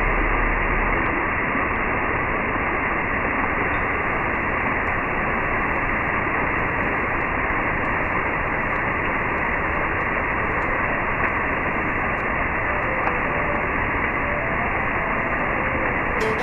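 Steady rushing noise with no beat, even in level throughout, and faint musical notes coming back in over the last few seconds.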